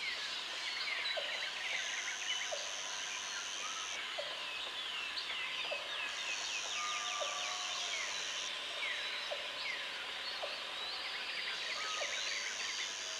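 Jungle ambience: a dense chorus of many birds calling with rapid, falling chirps, over which a high insect buzz starts and stops three times, each run lasting two to three seconds.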